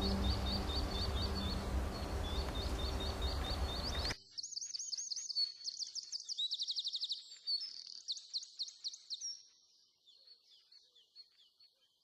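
Small birds singing: fast runs of sharp, up-sweeping chirps, over a dense background with steady tones that cuts off suddenly about four seconds in. The birdsong then carries on alone and fades out near the end.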